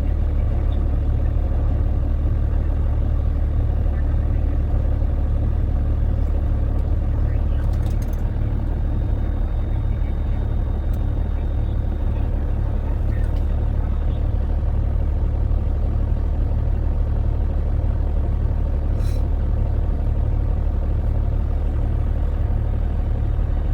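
Heavy truck's engine running steadily, a constant low drone with no change in pitch.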